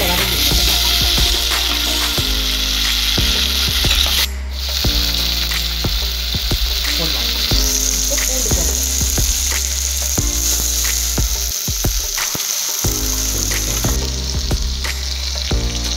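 Onions, garlic, curry leaves and tomatoes sizzling steadily in hot oil in a stainless steel pot, the tempering stage of a kuzhambu. A steel ladle stirs and clinks against the pot from time to time.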